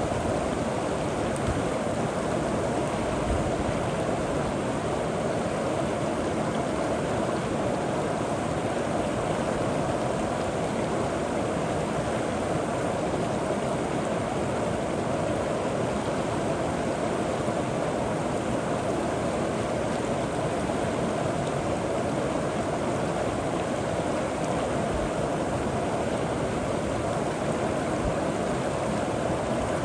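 River water flowing steadily over rocks, an even rushing with a gentle gurgle.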